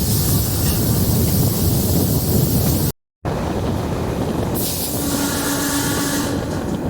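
A DEMU diesel multiple unit train running, heard from on board as a steady rumbling noise, with a brief dropout about three seconds in. Near the end, a steady horn tone sounds for about a second and a half.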